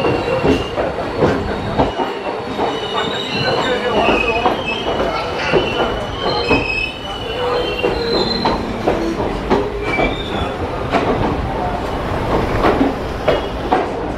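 Passenger train coaches rolling past close by, wheels knocking over rail joints in an uneven run of clicks, with short high-pitched wheel squeals that come and go.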